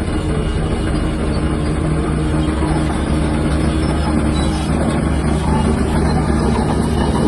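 Shantui DH17-C3 bulldozer's diesel engine running steadily at a constant pitch.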